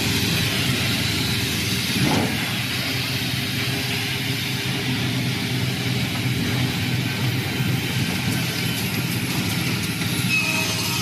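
Sliding table saw running with a steady, loud mechanical hum and whir from its motor and blade, with a brief rising sweep about two seconds in.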